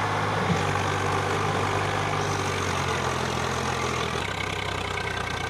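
Swaraj 744 FE tractor's three-cylinder diesel engine running steadily; about four seconds in its speed drops to a lower, steady idle.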